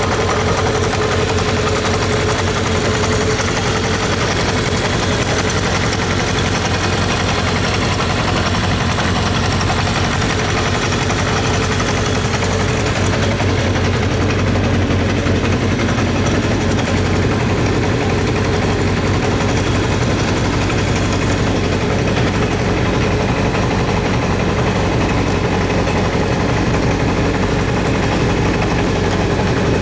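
Kawasaki Zephyr 750RS's air-cooled inline-four engine idling steadily, without revving.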